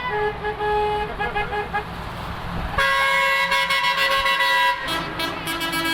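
Truck air horns sounding from passing convoy trucks over a low engine rumble. A few short toots come first, then a loud horn blast held for about two seconds, then a lower-pitched horn near the end.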